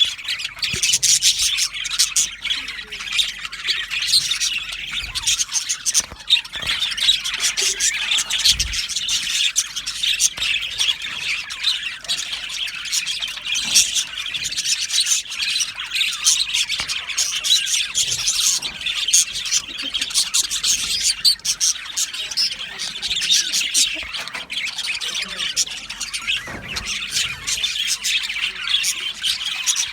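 Budgerigars chattering, chirping and squawking without a break, many birds calling over one another in a dense warbling din.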